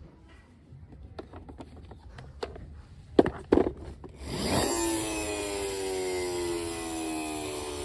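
Clicks and knocks of hard plastic toys being handled. About four seconds in, a loud electronic sound effect starts: a pitched tone over a hiss, sliding slowly down in pitch for about four seconds.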